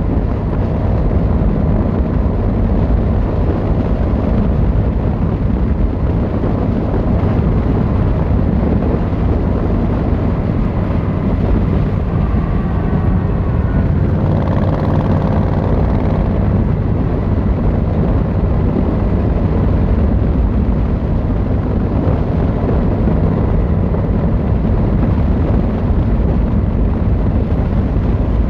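Yamaha XVZ1300 Royal Star's V4 engine and exhaust running steadily at road speed. About halfway through, a higher tone briefly rises and falls over the rumble.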